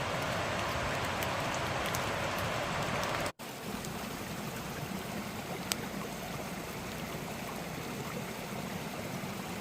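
A flowing creek and falling rain, a steady rush of water. About a third of the way in the sound cuts out for an instant and comes back quieter and lower, with a single sharp tick a couple of seconds later.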